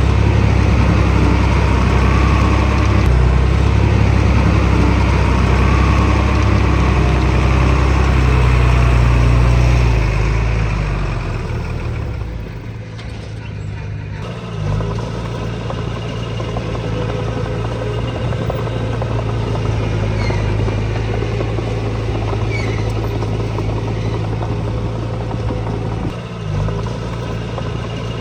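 Diesel engines of earthmoving machines running steadily. The engine sound is loudest for the first ten seconds, then drops and changes, and a different steady engine note takes over after a break about fourteen seconds in.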